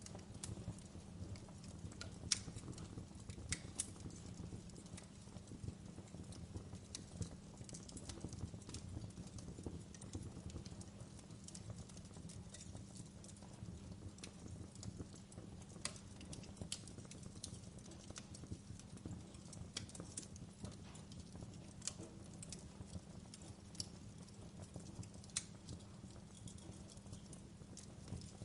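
Log fire crackling: a steady low rumble of flames with irregular sharp pops and snaps scattered throughout, the loudest about two seconds in.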